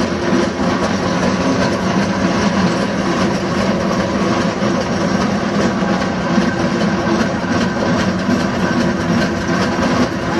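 A steam road roller on the move, giving a steady, loud mechanical running noise with a low hum underneath and no sharp changes.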